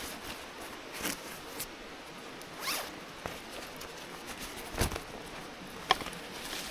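A zipper being pulled in several short strokes, with gear-handling knocks and a thump about five seconds in, over a faint steady hiss.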